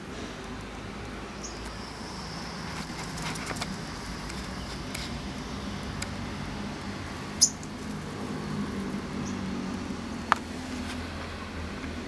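Olive-backed sunbird giving a few short, high chirps over a steady low hum; the sharpest chirp comes about seven and a half seconds in.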